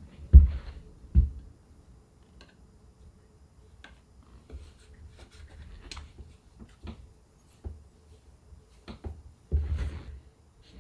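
Work sounds from chair upholstery: two heavy thumps near the start, light scattered clicks and taps, and another cluster of thumps near the end, over a faint steady hum.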